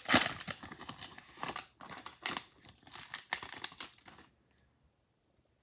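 Foil trading-card pack wrapper being torn open and crinkled by hand, a run of irregular crackling rustles that stops about four seconds in.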